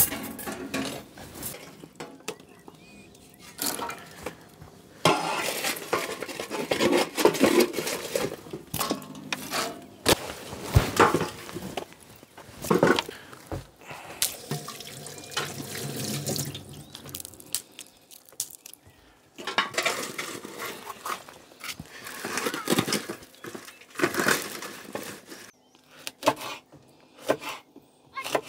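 Running water coming and going in stretches, with many irregular clicks and clattering knocks.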